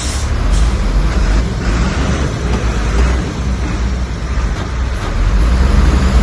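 Heavy earthmoving machinery's diesel engine running with a loud, steady low rumble, with a short hiss right at the start.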